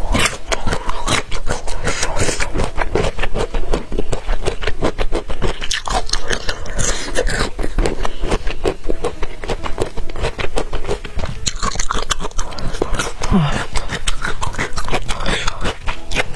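Close-miked biting and chewing of cooked golden bamboo shoot: a dense run of crisp, wet crunches.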